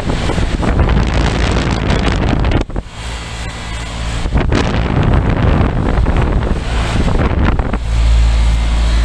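Outdoor condensing unit of a 2003 Bryant 561C central air conditioner running, its steady hum mostly buried under loud, gusty wind buffeting on the microphone. The buffeting dips briefly about a third of the way in and surges again near the end.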